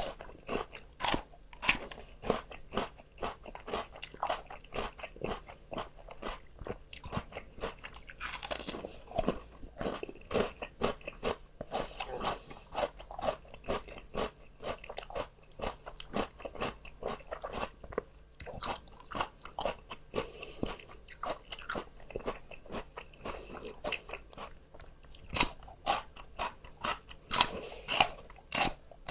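Close-up crunching and chewing of raw vegetables, with a run of sharp, crisp bites and crunches, densest near the start and again near the end.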